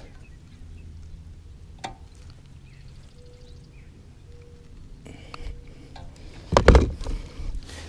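Handling noise over a low steady background: a sharp click about two seconds in and a heavy thump near the end.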